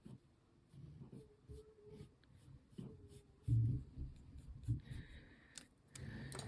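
Light scratchy strokes on a surface, with scattered small clicks and a dull low thump about halfway through, as a craft piece and tools are worked and handled on a table.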